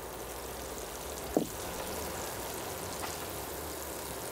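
Sweetcorn fritter batter sizzling in hot oil in a frying pan as spoonfuls are ladled in, a steady hiss. A single short knock about a second and a half in.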